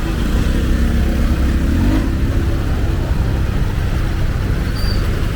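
A motor vehicle's engine running close by, its steady low hum easing off about two seconds in, over the steady hiss of heavy rain.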